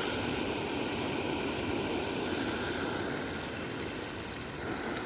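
A motor running steadily, an even mechanical hum.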